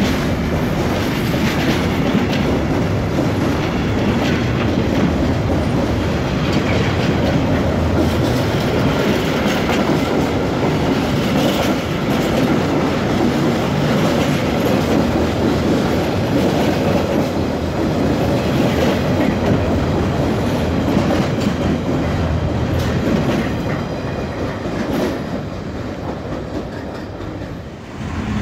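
Freight train of container flat wagons rolling past, a steady loud rumble of wheels on the rails with rattling clatter from the wagons, dying away near the end as the last wagons go by.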